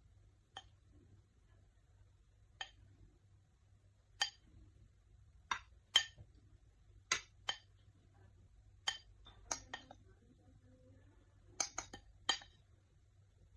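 Cutlery or utensils clinking against dishes: about a dozen short, sharp clinks at irregular intervals, a few of them in quick pairs.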